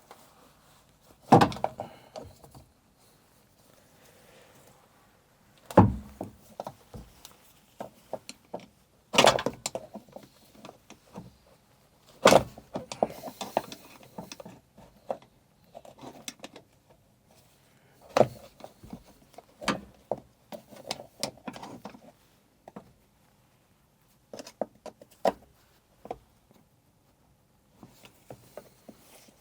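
Hand tools and metal parts knocking and clunking as the top of a Kubota digger's hydraulic oil tank is undone, with five loud knocks and many lighter clicks and rattles between them.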